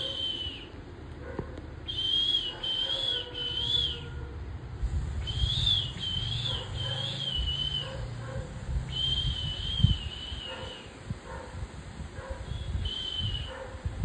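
Fledgling Oriental magpie-robin calling: short, wavering whistled notes, in four runs of one to three notes each, with a low steady hum beneath.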